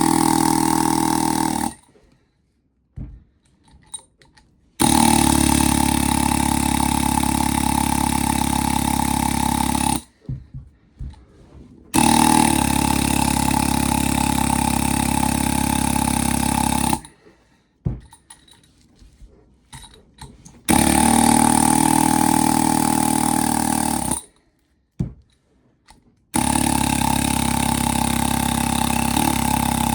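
Pneumatic air hammer chiseling into a refrigerator compressor motor, running in five bursts of a few seconds each with short pauses between them. Each burst is a steady, fast rattling buzz.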